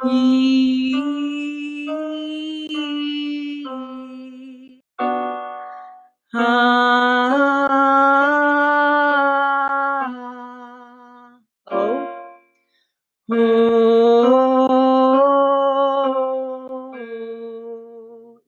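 A woman sings a vocal warm-up exercise, holding sustained vowels on a three-note minor pattern that steps up and back down, three phrases in a row. Short piano chords sound between the phrases, giving the starting pitch.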